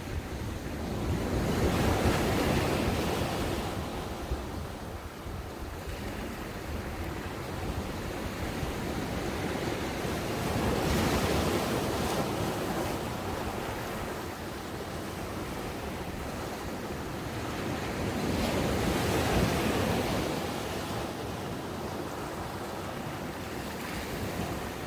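Ocean waves breaking on a sandy beach shore, three swells of surf rising and falling in turn over a steady wash, with some wind on the microphone.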